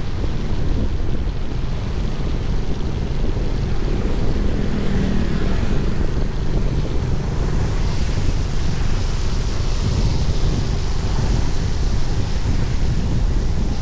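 Wind buffeting the microphone with a steady low rumble and hiss; a brighter hiss comes in about eight seconds in.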